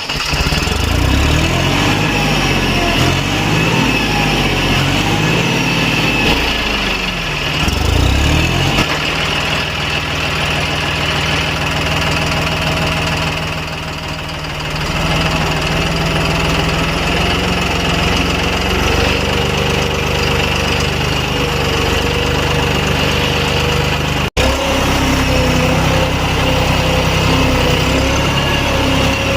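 Tractor engine running, its pitch shifting during the first several seconds, then settling into a steady run. There is a brief dropout about 24 seconds in.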